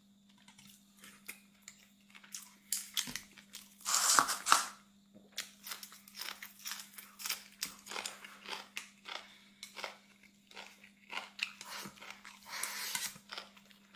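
Close-up mukbang eating sounds: chewing of fried rice with frequent small clicks of the spoon or chopsticks against the dish, and two louder rustling, crinkling bursts, one about four seconds in and one near the end.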